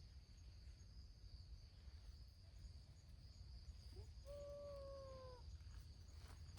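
A cat meows once, a long drawn-out call about four seconds in that slides slowly down in pitch. A faint steady high-pitched hum runs underneath.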